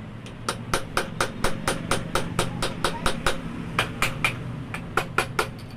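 Rapid, even hammer strikes, about four a second, with a short break just past the halfway point, over a steady low hum.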